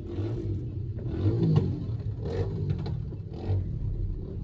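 Busy town street traffic: car engines running with a low steady rumble, and several vehicles passing close by, swelling louder and fading.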